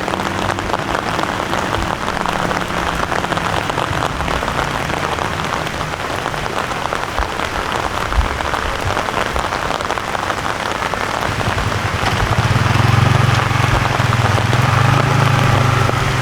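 Heavy rain falling steadily and densely. About two-thirds of the way in, a low steady hum joins under the rain.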